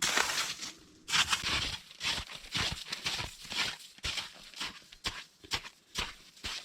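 Repeated crunching, scraping strokes, about three a second, with a longer burst near the start.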